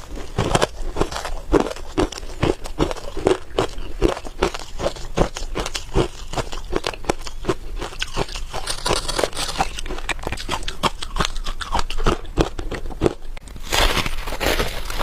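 Freezer frost being bitten and chewed close to the microphone: a steady run of crisp crunches, about two to three a second, with a denser burst of crunching near the end.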